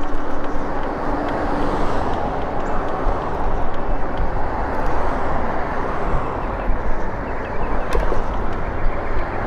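Wind on the microphone and tyre rumble from an electric bike riding over a rough concrete sidewalk, with a sharp knock about eight seconds in.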